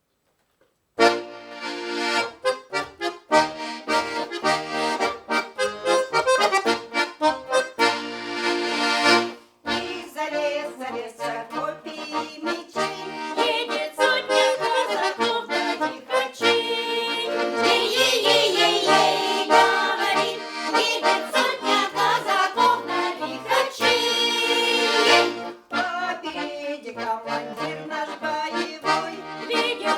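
Accordion playing a Russian folk tune without voices, full chords over a stepping bass. It starts about a second in, with short breaks near 9 and 25 seconds.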